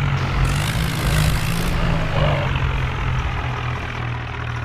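Tractor diesel engine running steadily, a low drone that drops slightly in level in the second half.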